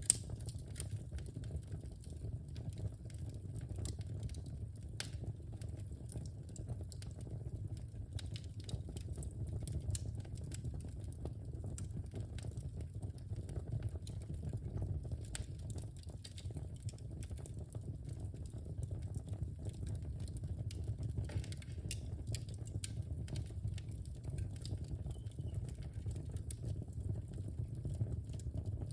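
Wood fire burning in a fireplace, crackling with scattered sharp pops over a steady low rumble of the flames; one sharp pop right at the start.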